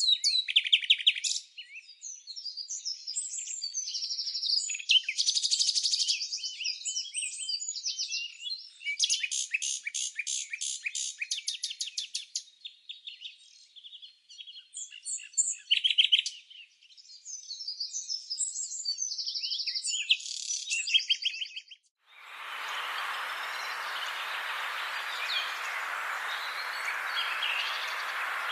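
Songbirds singing a varied mix of chirps, fast trills and rapid repeated notes. About two-thirds of the way through, the song gives way abruptly to a steady hiss-like outdoor ambience with faint bird calls in it.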